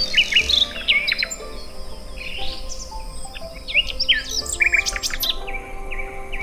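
Several songbirds chirping and calling in quick, high, sweeping notes that overlap one another, over soft background music of held notes.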